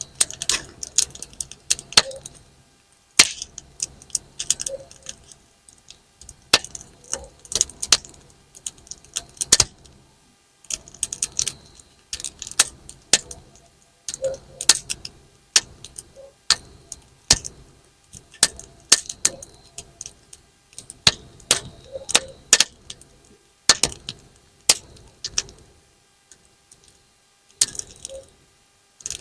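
Wood campfire crackling and popping: irregular sharp snaps from the burning logs, sometimes in quick clusters, like bang-snap firecrackers being thrown.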